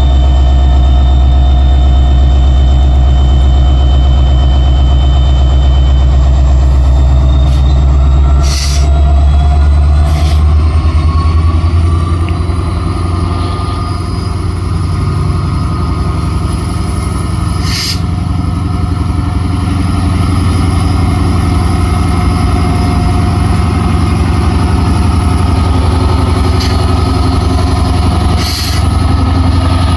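Diesel locomotive running loud and close, a deep rumble with a whine that rises in pitch about ten seconds in and then holds steady. A few sharp knocks come through at intervals.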